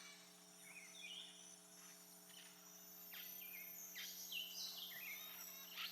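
Faint bird chirps, a handful of short calls that step and glide in pitch, over a steady low hum.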